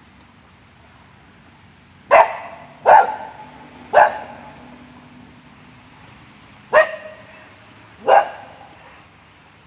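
A dog barking five times: three barks a second or less apart, then a pause, then two more. Each bark dies away briefly after it.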